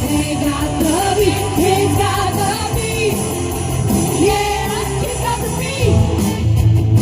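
Live 1980s pop-rock cover band playing, with a female lead vocalist singing the melody over guitar, bass and drums.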